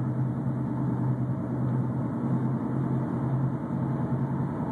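Low, pulsing hum from the rear of a 2006 Toyota Camry driving at 40–50 mph, heard from inside the cabin over road noise. It appeared after a hard curb strike that bent a wheel, and the driver-side rear now wobbles.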